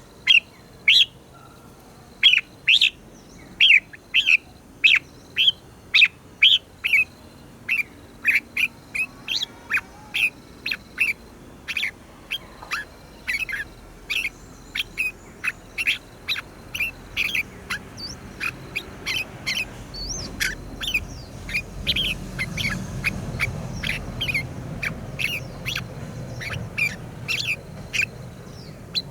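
Red-whiskered bulbul singing: a long run of short, sharp chirping notes, about one to two a second at first and coming thicker in the second half.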